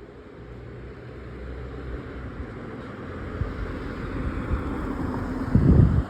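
Thunder rolling: a low rumble that slowly builds over about five seconds, ending in a loud low burst that cuts off suddenly.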